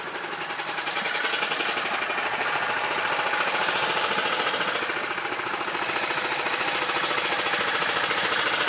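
Karakat swamp buggy's small engine running steadily with a fast, even clatter while the machine works through a boggy stream. The level dips slightly about five seconds in.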